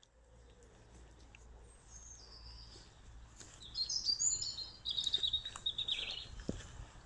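Songbird singing a fast, varied warbling phrase, building from about two seconds in and loudest in the second half, over a steady low rumble.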